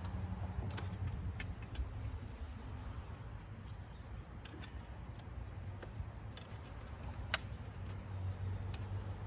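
Scattered light clicks and taps of wire and a box being handled, the sharpest about seven seconds in, over a steady low rumble.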